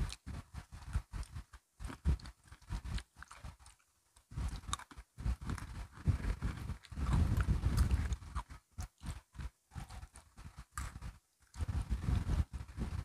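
Close-miked crunching and chewing of crunchy biscuit sticks: fast, irregular crisp cracks with brief pauses between mouthfuls.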